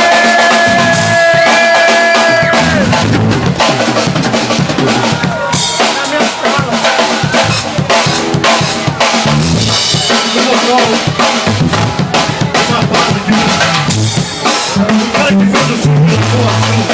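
Live rock band playing, with the drum kit to the fore: quick kick and snare strokes over bass and guitar. A long note is held through the first few seconds before the drumming fills in.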